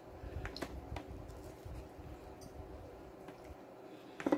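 Close-miked chewing of food, with a few soft, wet mouth clicks and a slightly louder click near the end.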